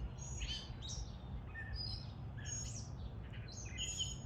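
Gray catbird singing: a rambling string of short, varied chirps and squeaky notes, one after another, over a steady low rumble.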